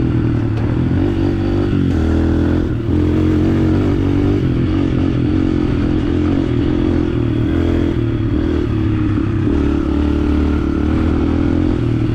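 A 125 cc four-stroke dirt bike engine running under way, its pitch rising and falling as the throttle opens and closes.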